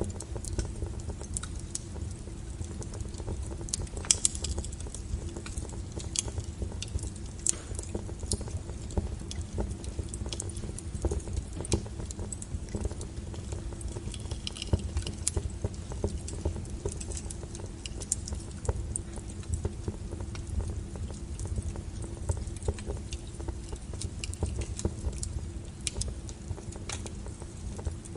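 Wood fire burning, with irregular sharp crackles and pops of the burning firewood over a steady low rumble of the flames; one louder pop about four seconds in.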